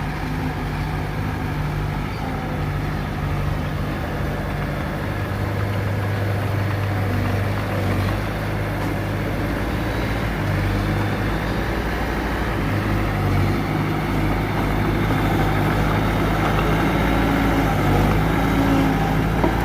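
Heavy diesel engine of earthmoving machinery running steadily, its pitch shifting slightly and growing a little louder toward the end.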